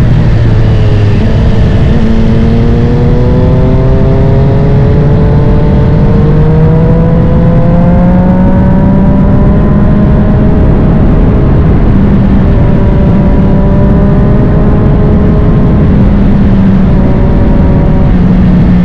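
Triumph Street Triple 765 RS inline three-cylinder engine through a Spark full exhaust, loud under way. Its pitch dips at the start, climbs slowly for several seconds as the revs build, then holds fairly steady with a few short breaks near the end.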